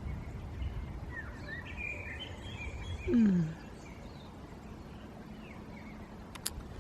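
Birds chirping faintly over a steady low rumble, with one short, louder call that falls in pitch about three seconds in and a single click near the end.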